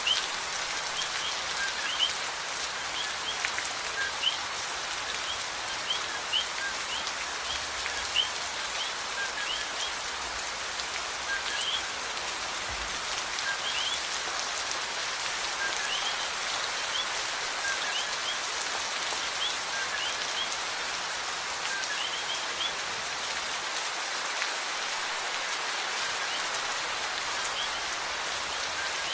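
Steady rain falling on a surface: an even hiss with scattered drop ticks. Short high chirps repeat irregularly over it and stop about three-quarters of the way through.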